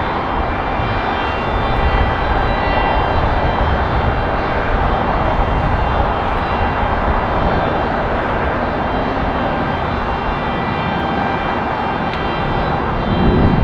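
Jet airliner engines running loud and steady: a rushing noise with several steady high whining tones over it, the low rumble swelling near the end.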